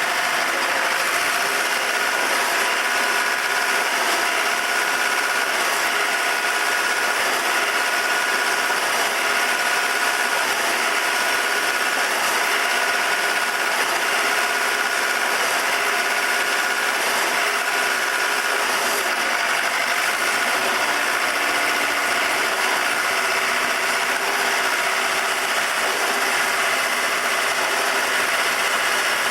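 Engine of a REED A40HP trailer concrete pump running steadily at a constant speed.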